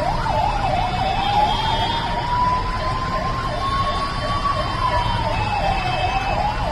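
Emergency vehicle sirens sounding in heavy road traffic: a fast yelping siren (about three or four sweeps a second) together with a slower wailing tone that rises and falls, over the steady low rumble of traffic.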